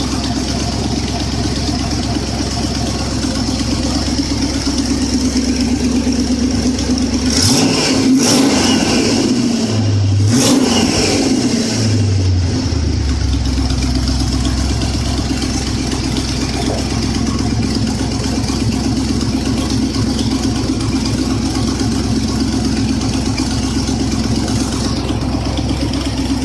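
Ford 390 FE V8 running on an engine test stand, idling steadily. About a third of the way in it is revved up twice in quick succession, then settles back to idle.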